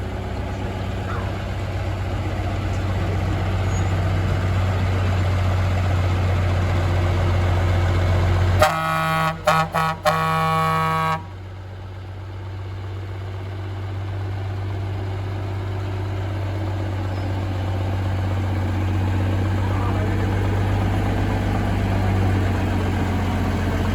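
Semi truck's air horn sounding about nine seconds in: a few quick broken toots running into a held blast of about two seconds. Under it, a steady low rumble of truck engines.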